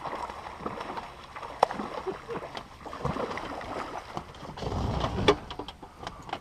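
Water splashing around a small boat, with scattered knocks and clicks of handling aboard, and a louder low rumble about five seconds in.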